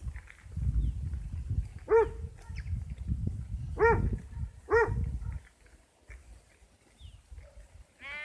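Three short, sharp animal calls, each rising then falling in pitch: one about two seconds in, then two close together a second apart. A low rumbling noise runs under them and dies away after the third call.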